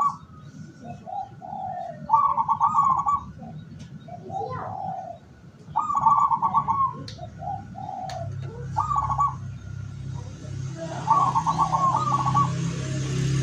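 Local zebra doves (perkutut) cooing: four loud, rapidly pulsed coo phrases a few seconds apart, with softer, lower coo notes between them and faint chirps of a small bird behind. A low hum with hiss comes in about two-thirds of the way through.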